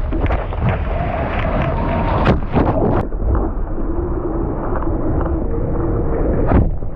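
Wind buffeting the microphone over rushing surf water, with a few sharp knocks.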